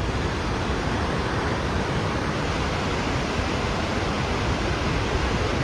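Steady rush of the fast-flowing Bow River, an even roar of water.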